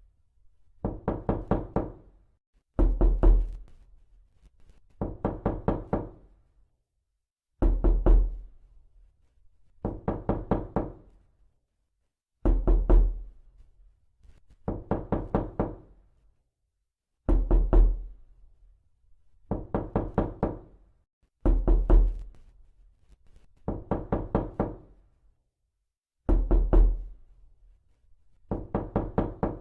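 Knocking on a door: quick bursts of four or five knocks, repeating about every two seconds with short silent gaps between.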